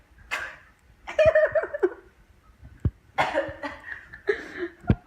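A person coughing and gagging in several short bursts, with brief voiced noises between them, in reaction to a foul-tasting food.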